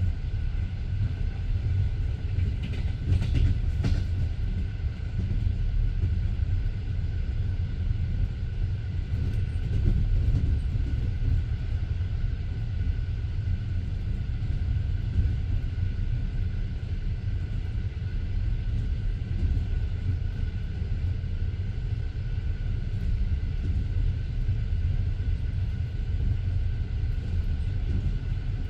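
Passenger train carriage running along the track, heard from inside the carriage: a steady low rumble of wheels on rails, with a brief higher rattle about three seconds in.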